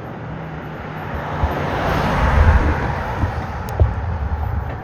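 A vehicle setting off and rolling over a rough road: a low rumble and hiss that builds over the first two seconds and then holds, with scattered rattles and knocks. The owner is unsure whether the rattle comes from the vibrating armrests or the DJI camera mount.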